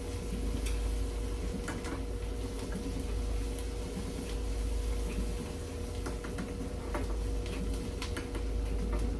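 Scattered light clicks and taps of kitchen utensils and cookware over a steady low hum.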